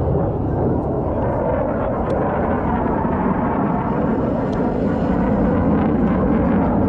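Aircraft flying over, its engines making a steady, loud noise that grows a little louder toward the end.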